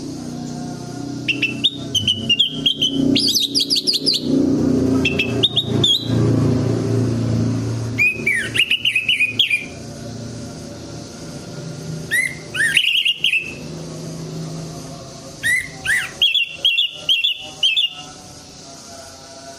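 Orange-headed thrush (anis merah) singing in bursts of quick, chattering whistled phrases that rise and fall, five or six bursts with short gaps between them. A steady low hum runs underneath.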